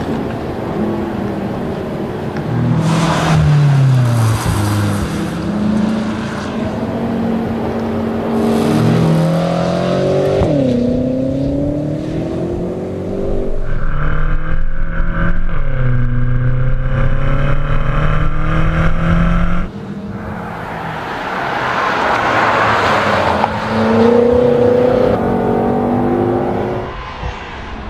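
BMW M5's 4.4-litre twin-turbo V8 driven hard, its revs climbing and dropping repeatedly through gear changes, with a steady stretch of held revs in the middle. A rush of noise comes over the engine about two-thirds of the way through.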